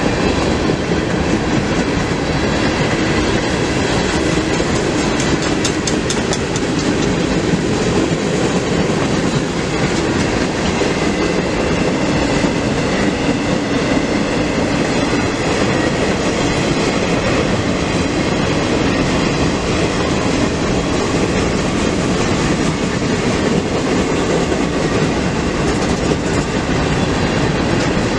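Freight train cars rolling past, a steady, unbroken noise of wheels running over the rails.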